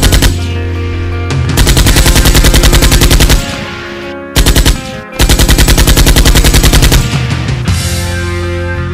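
Rapid automatic gunfire in several bursts, about eleven shots a second, the longest lasting nearly two seconds, over loud background music.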